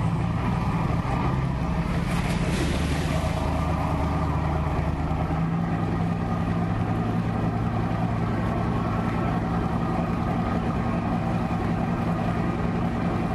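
A steady, low engine hum, running without change.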